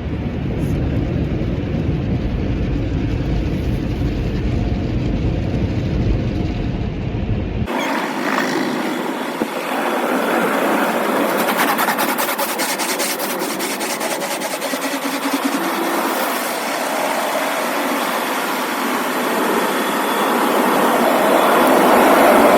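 Car engine rumbling low for several seconds, then abruptly a loud, steady hiss of car wash water spraying over the car.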